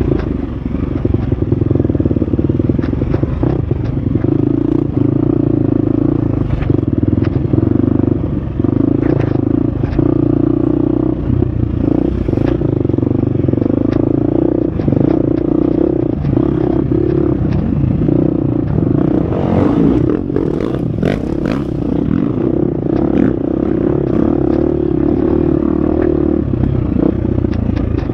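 Husqvarna FX 350 dirt bike's single-cylinder four-stroke engine running steadily under load on a trail, with frequent clatter and knocks from the bike working over rough ground.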